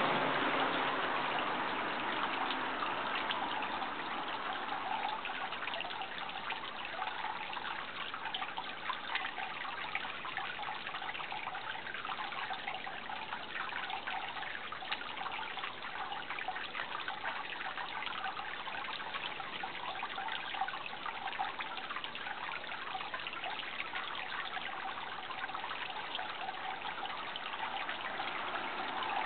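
Water trickling steadily, an even splashing hiss with no let-up.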